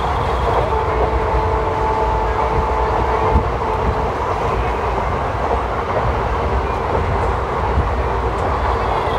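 An ICF passenger coach running on the rails, a steady loud rumble of wheels and track. A held tone sounds over the first three seconds and ends with a single sharp knock.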